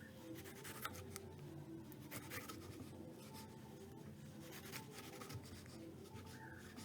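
Faint, irregular scraping and rubbing strokes from kitchen utensil work, such as a knife on a cutting board or a spoon working through food.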